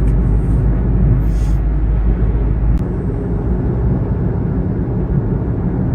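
Steady low engine and road rumble heard inside the cabin of a Kia Morning small hatchback driving on the road. A single short click sounds about three seconds in, after which the deepest part of the rumble eases slightly.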